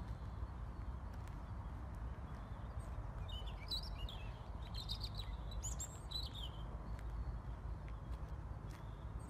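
Small birds chirping in short, quick phrases through the middle of the stretch, over a steady low outdoor background rumble.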